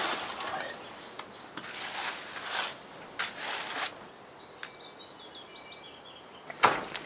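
A small bird sings a short series of high notes that step down in pitch, after several seconds of rushing, rustling bursts of noise; a sharp noise comes near the end.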